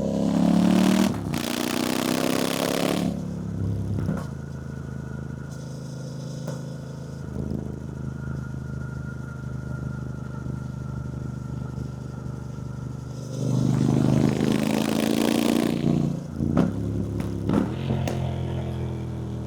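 2024 Triumph Bonneville T120's 1200 cc parallel-twin engine on the road, pulling up in pitch under throttle near the start and again at about 14 seconds, with a loud rush of noise over it. In between it runs steadier and quieter.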